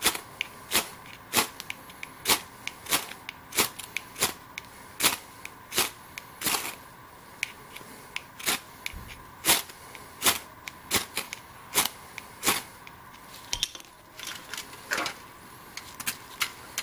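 Burning bird's nest of dry grass and twigs crackling, with sharp irregular pops about once or twice a second as the material is consumed.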